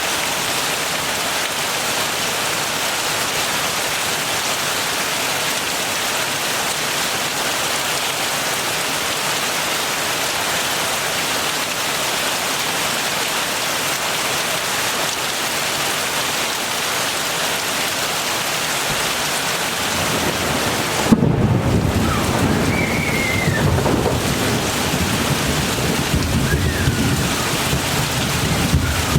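Heavy rain falling steadily. About three-quarters of the way through, a sharp thunder crack comes, followed by a low rolling rumble that continues under the rain.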